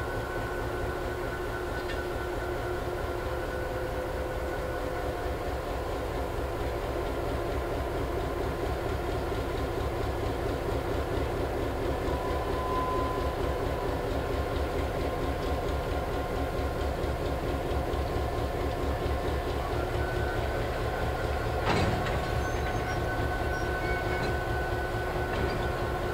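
A slow train of passenger carriages and diesel locomotives rolling past on the track: a steady low rumble of wheels with a fine pulsing beat and several faint steady tones over it, and a single sharp knock about 22 seconds in.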